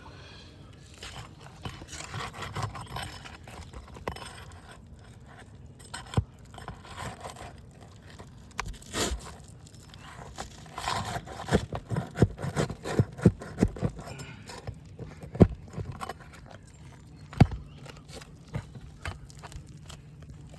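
Asphalt roof shingles being lifted and their tar seal strip broken to reach the nails: scraping and crackling, with a run of sharp knocks and clicks in the second half.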